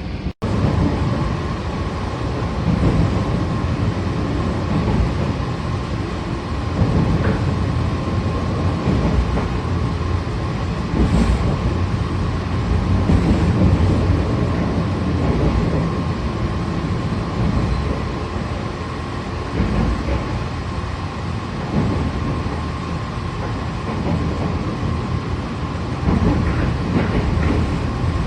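Interior running noise of the WEST EXPRESS Ginga, a rebuilt 117-series electric train, under way: a continuous low rumble of wheels on rail with a faint steady whine, swelling and easing a little.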